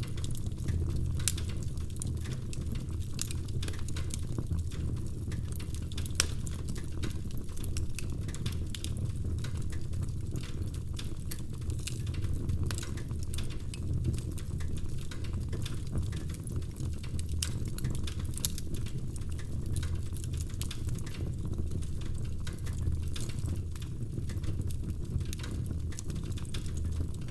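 Wood fire crackling in a fireplace: frequent irregular snaps and pops, a few louder than the rest, over a steady low rumble of the flames.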